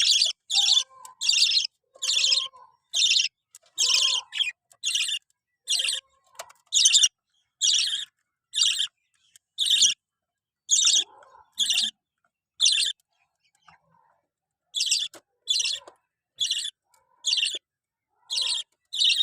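Lovebirds calling: a regular series of short, high-pitched chirps, about one a second, with a brief pause about two-thirds of the way through.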